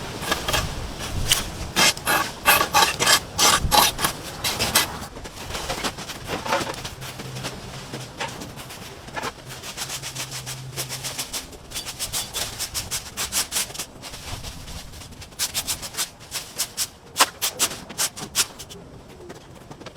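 Yard debris being handled by hand: irregular clattering, rattling and scraping, with quick runs of sharp clicks, busiest in the first few seconds and again near the end.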